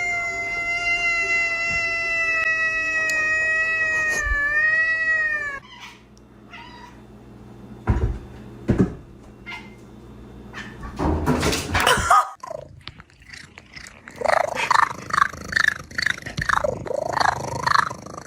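A cat's long drawn-out meow, held on one steady pitch for about six seconds, then dipping and falling away at the end. After a cut come a few knocks and a rustling burst, then a run of short, rapid meows that bend up and down.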